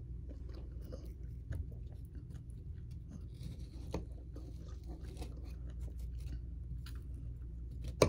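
A person chewing and biting food, with soft crunches and small clicks over a steady low hum, and one sharper click near the end.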